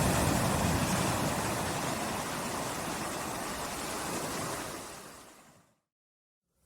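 Calm sea waves lapping on a shore, a steady wash of surf. It fades away to complete silence about five and a half seconds in.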